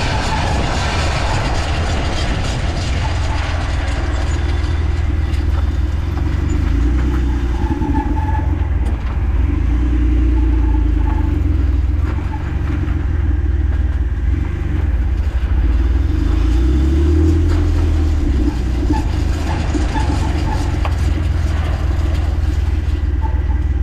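Jeep Wrangler JK running with a steady low rumble, with faint scattered clicks that the owner traces to the rear driveshaft.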